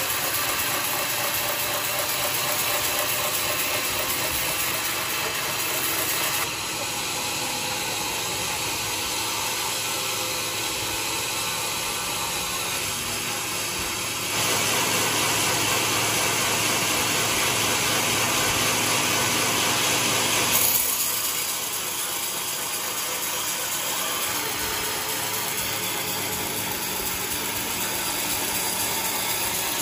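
Sawmill machinery running with a steady mechanical clatter, stepping up to a louder, hissier stretch in the middle before dropping back.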